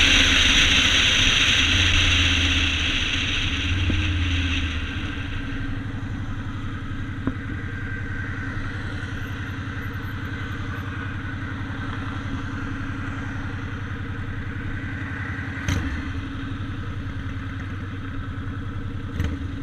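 Yamaha Road Star 1600's air-cooled V-twin engine running. It is louder for the first four or five seconds, then settles to a steady lower level. Two sharp clicks come in the last few seconds.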